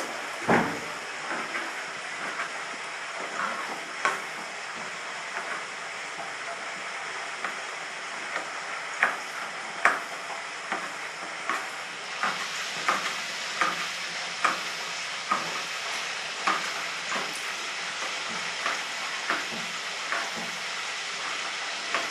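Chicken frying in hot oil with a steady sizzle that grows a little brighter about halfway through, broken by irregular sharp clicks and taps.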